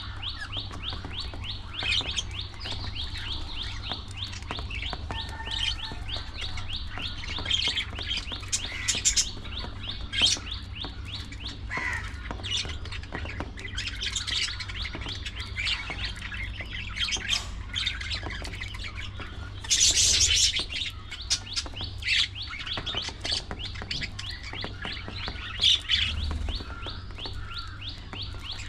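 A colony of budgerigars chirping and warbling continuously, many birds at once, with louder calls standing out every few seconds and the loudest burst about twenty seconds in. A steady low hum runs underneath.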